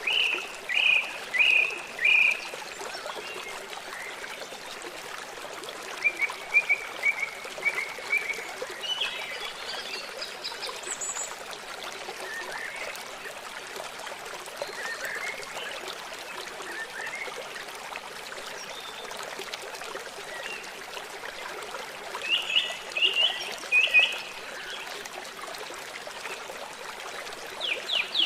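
Songbirds chirping in short phrases over the steady rush of flowing water. A run of four loud chirps opens the sound, more chirp phrases come about six seconds in and again near the end, and a fast trill begins at the very end.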